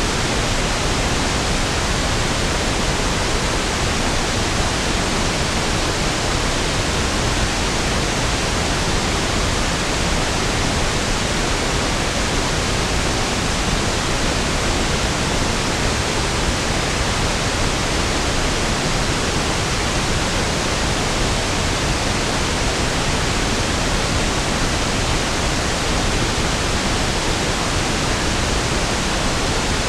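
Steady pink noise (1/f noise), an even hiss with equal energy per octave that never changes.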